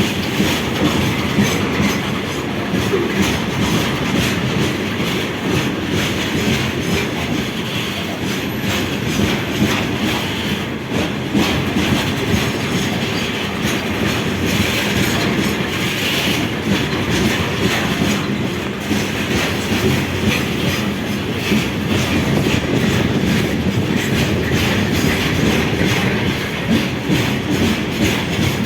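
A railway train rolling past, its wheels clattering steadily over the rail joints, with a faint squeal from the wheels now and then.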